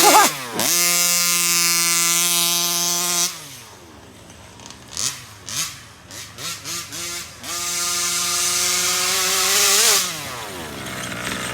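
Rovan FT360R's stock 36cc two-stroke engine at full throttle for about three seconds, holding a steady high note. It drops back to low revs with a few short throttle blips, then opens up again for a second full-throttle run of a couple of seconds before falling back.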